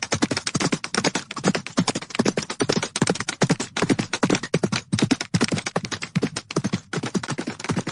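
Galloping horse hooves: a rapid, uneven drumming of hoofbeats that carries on without a break.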